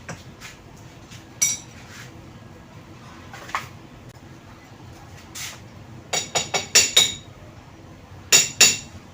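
Sharp, ringing metal-on-metal clinks, like steel tools or parts knocked together. They come singly at first, then as a quick run of about five, then as two more near the end.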